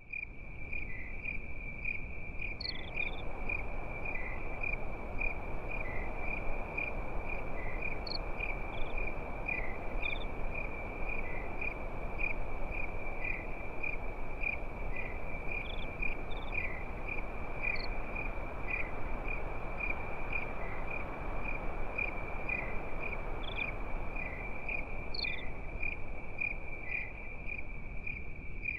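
Crickets chirring in a steady, unbroken high trill, with a few other insects chirping higher now and then over a soft, even hiss of night ambience.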